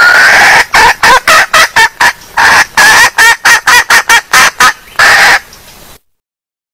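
Female junglefowl calling: one longer call, then a quick run of short, loud calls, closing with a longer call about five seconds in, after which the calling stops abruptly.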